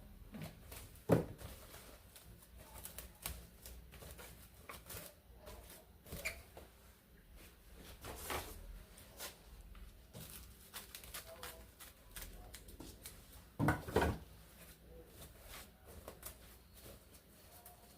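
Scattered light knocks, clicks and rustles of things being handled on a kitchen worktop, with a louder double knock about fourteen seconds in.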